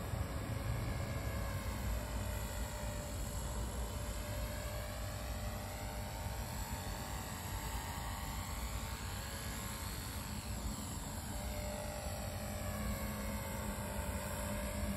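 Small electric remote-control helicopter (V950) flying, its motor and rotor whine shifting as it moves nearer and farther, over a strong low rumble of wind on the microphone.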